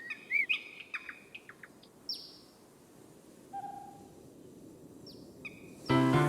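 Several birds calling: a cluster of short chirps and whistles in the first two seconds, then a few scattered calls that sweep down in pitch. Piano music comes in near the end.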